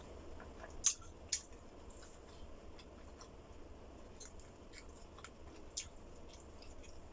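A person eating close to the microphone: soft chewing with scattered sharp clicks, the loudest about a second in.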